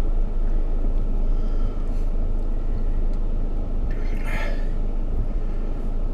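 Motorhome engine and tyre noise, a steady low rumble while creeping slowly over stony, uneven ground, with a brief rattle about four seconds in.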